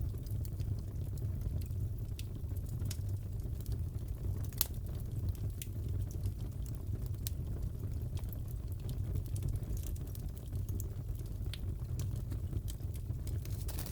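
Fireplace crackling: a steady low rumble with scattered sharp pops and snaps, one louder pop about four and a half seconds in.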